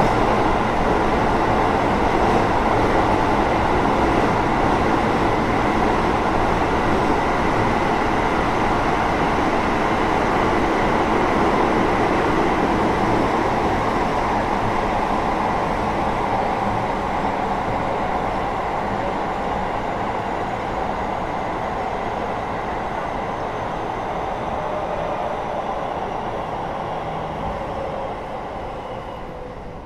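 Interior running noise of a Keio 8000-series electric train, heard above its Hitachi GTO-VVVF main controller: wheels on rail and motor hum, with a faint high inverter tone gliding slowly down as the noise gradually fades. The train is slowing down.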